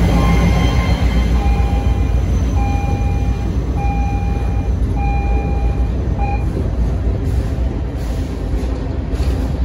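Freight train rolling past: a diesel locomotive rumbling by at the start, then freight cars' wheels running on the rails. A high tone comes and goes about once a second over the first six seconds.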